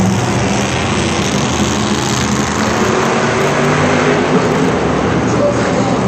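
Monster truck engine running loudly and steadily, its low note wavering slightly.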